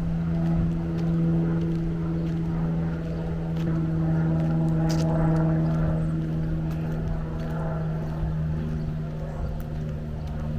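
An engine's steady drone, holding one low pitch with fainter overtones, over a few faint clicks.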